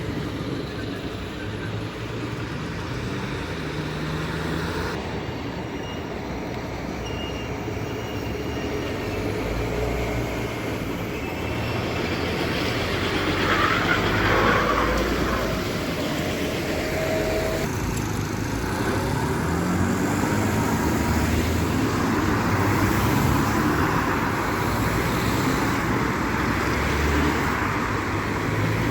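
Road traffic with heavy trucks driving past: engines running and tyre noise, growing louder about halfway through.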